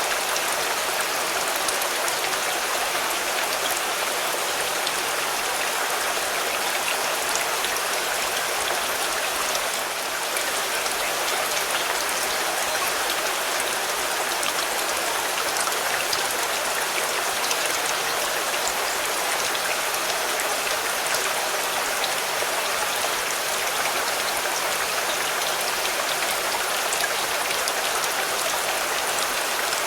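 Steady rain falling on a car: a dense, even hiss with many individual drops ticking on the surface.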